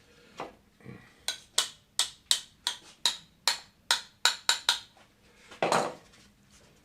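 About a dozen sharp clicks in quick succession, roughly three a second, followed near the end by a short hiss of CA glue accelerator being sprayed onto the glued joint.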